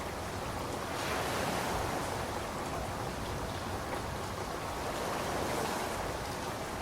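Steady rain falling: a continuous hiss with faint scattered drops, swelling and easing gently every few seconds.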